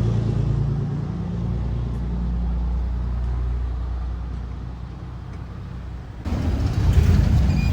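Car road noise while driving: a steady low rumble with a low drone. About six seconds in it changes abruptly to a louder, rougher noise.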